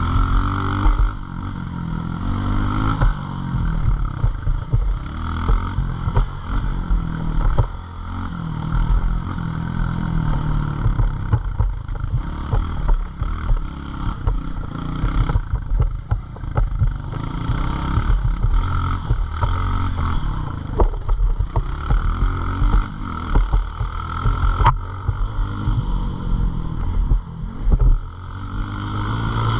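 Small single-cylinder pit bike engine revving up and falling back over and over as it is ridden hard, with rattles and knocks from the bike over the whole stretch.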